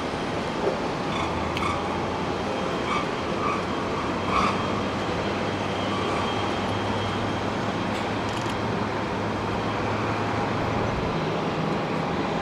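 Steady airport jet-engine noise: a continuous rumble with a faint steady whine and a low hum, broken by a few brief sharper sounds in the first few seconds.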